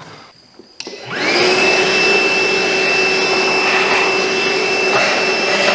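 Milwaukee cordless shop vac switched on about a second in, its whine rising as the motor spins up, then running steadily with a high whine over a rush of air while blowing dust out of a furnace burner.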